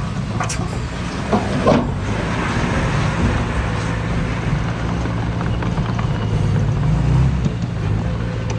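Heavy diesel earthmoving machinery running steadily under load, with a couple of brief knocks under two seconds in.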